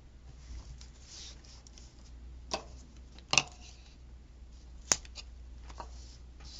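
Washi tape and planner pages being handled: soft rustling broken by three sharp clicks or snaps, the middle one the loudest.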